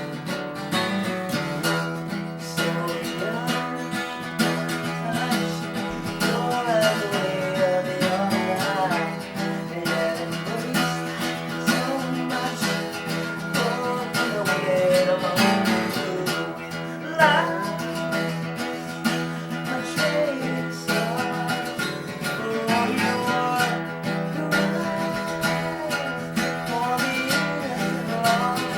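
Acoustic guitar playing a song, with a voice singing a melody over it.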